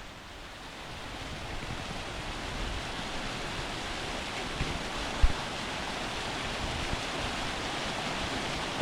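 Steady rush of a waterfall's falling water, with a brief low thump about five seconds in.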